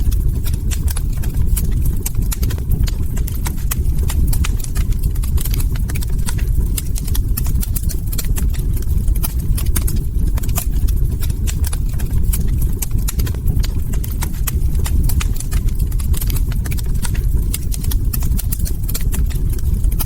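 Log fire crackling: frequent irregular sharp pops and snaps over a steady low rumble of burning wood.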